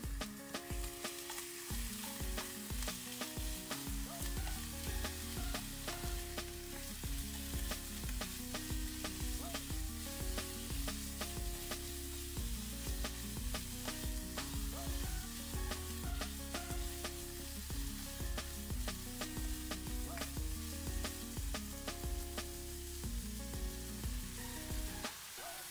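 Chicken pieces and Thai chili paste sizzling in a nonstick wok, stirred and scraped with a spatula in many small clicks, over soft background music. Water is poured into the pan near the end.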